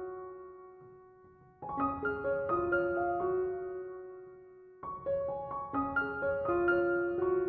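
Background piano music: short phrases of quickly struck notes that ring on and fade, with brief pauses between phrases.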